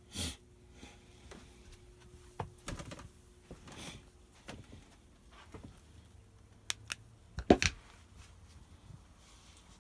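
Scattered light clicks and knocks of objects being handled, with a sharper knock about seven and a half seconds in.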